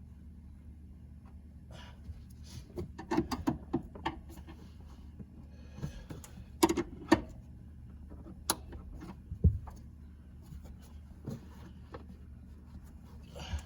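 Scattered clicks and knocks of hand tools and plastic trim while working at a car seat's mounting bolts, in a cluster a few seconds in and again around the middle, over a steady low hum.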